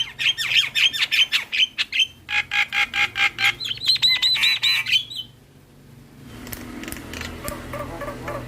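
Javan myna (jalak kebo) singing a fast run of loud, harsh repeated notes, about five a second, breaking off after about five seconds. A softer jumble of calls follows near the end.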